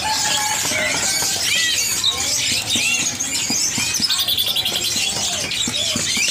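Many caged songbirds chirping and calling at once: a dense chorus of short notes rising and falling in pitch. About four seconds in, a fast buzzy trill joins in.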